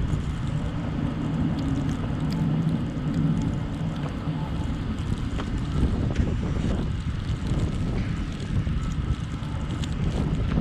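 Car driving through a snowstorm: a steady low rumble of engine and tyres with wind noise, and scattered light ticks.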